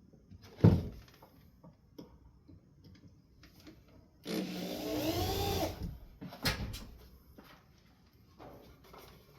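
Corded power drill driving a screw into a wooden shelf arm, running for about a second and a half mid-way with its pitch rising and falling under the trigger. A few knocks from handling the wood and tool come before and after.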